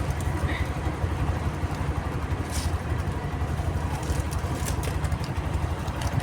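An engine idling: a steady low rumble, with a few faint clicks.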